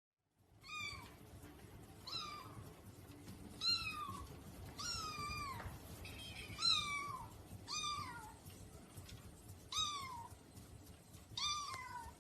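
A cat meowing over and over, about eight short meows, each falling in pitch, spaced roughly a second and a half apart.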